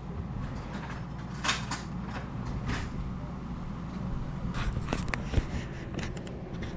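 Kitchen handling sounds: a few short scrapes and a run of light clicks and clatters over a steady low hum.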